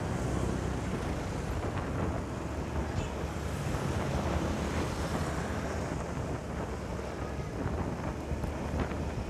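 Steady wind buffeting the microphone of a moving motorcycle, a low rumble with the motorcycle and road noise mixed underneath.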